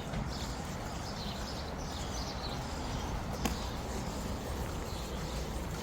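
Birds chirping faintly over a steady low outdoor background noise, with one sharp click about three and a half seconds in.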